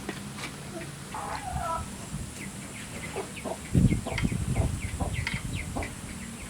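Chickens clucking, with short calls scattered throughout and one drawn-out call about a second in. A louder low rumble on the microphone comes in about four seconds in and runs for a second or so.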